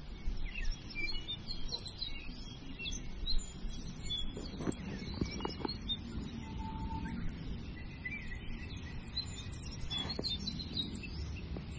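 Outdoor ambience with small birds chirping and tweeting on and off, and a few light clicks around the middle.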